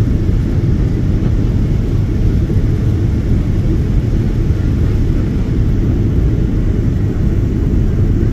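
Passenger airliner during its landing, a steady low rumble that holds even without change.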